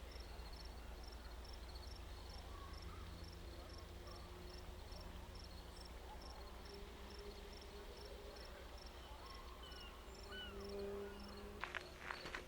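A cricket chirping steadily in a regular rhythm of about two short high chirps a second, over a low steady rumble and hum, with a few faint bird calls. Footsteps start again near the end.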